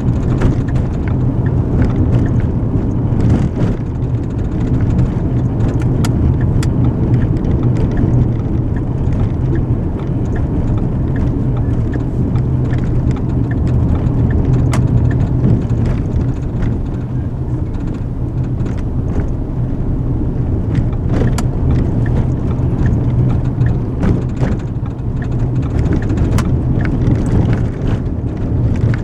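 Steady road and engine rumble heard inside a moving car's cabin, with faint light ticks and rattles now and then.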